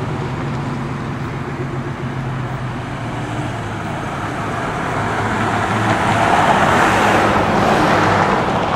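Motor vehicle engine running steadily with road traffic noise, the noise swelling louder about six seconds in.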